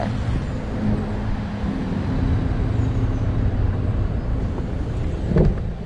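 Motor vehicle engine running steadily with road traffic noise, a low even hum, and a short pitched sound about five seconds in.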